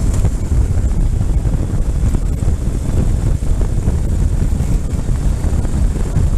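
Ural motorcycle on the move, its engine a steady rumble under heavy wind noise buffeting the microphone.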